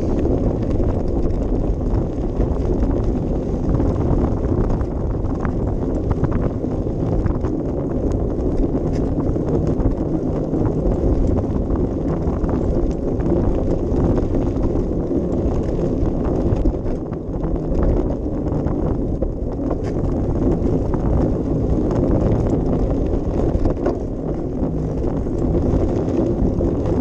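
Steady rumble and small rattling knocks of a bicycle ridden along a dirt or gravel path, with wind buffeting the action camera's microphone.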